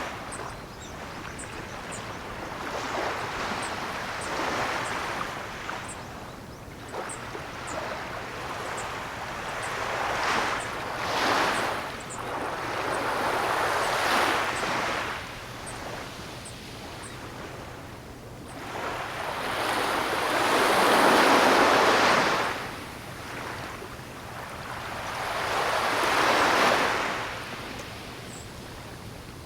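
Ocean surf: waves breaking and washing ashore in slow, rising and falling surges, with several larger swells, the biggest about two-thirds of the way through and another near the end.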